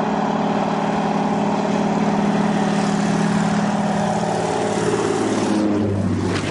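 A small propeller airplane's engine drones loudly and steadily as it passes very low, its pitch dropping a little about five seconds in.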